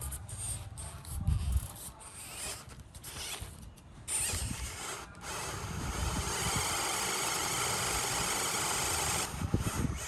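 Small electric RC truck driving over rough ground. At first there are scattered knocks and clicks from the chassis and wheels, then from about four seconds in a steady motor and gear whine that cuts off about nine seconds in.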